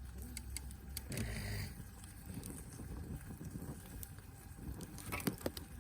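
Wood fire crackling with scattered sharp pops over a low wind rumble on the microphone, with a cluster of louder knocks near the end.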